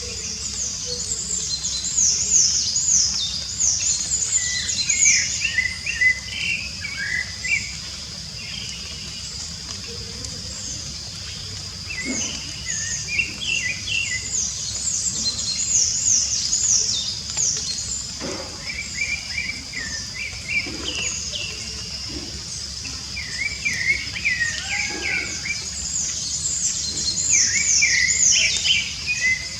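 Songbirds singing: groups of quick, high, falling chirps come again and again, mixed with lower warbled phrases, over a steady high-pitched insect drone.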